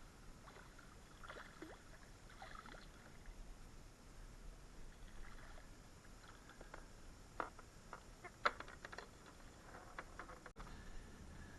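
Quiet water sounds around a kayak, with a few light knocks or clicks; the sharpest come about seven and eight and a half seconds in.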